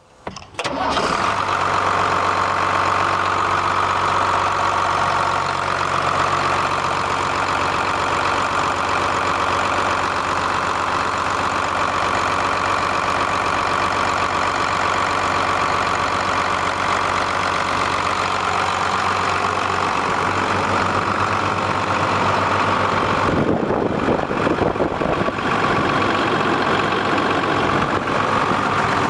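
2001 New Holland TM135 tractor's six-cylinder diesel engine idling steadily, with a rougher, noisier stretch about 23 seconds in.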